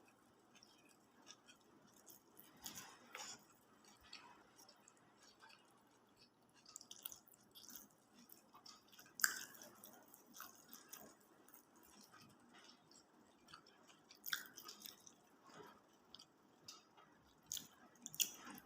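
Faint close-miked chewing and mouth sounds of someone eating nasi Padang: soft wet smacks and clicks coming irregularly, with a sharper smack about nine seconds in and another around fourteen seconds.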